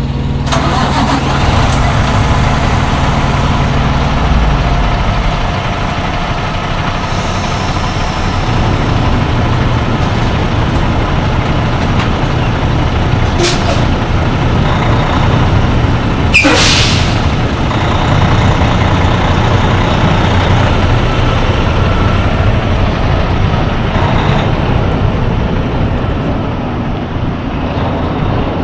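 Semi truck's diesel engine running, heard from inside the cab, its note shifting about four seconds in. Two sharp hisses of air from the air brakes come about halfway through, the second louder and longer.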